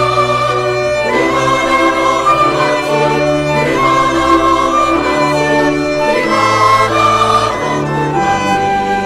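Orchestral accompaniment led by bowed strings, playing sustained chords that change about once a second over a moving bass line, within a choral anthem.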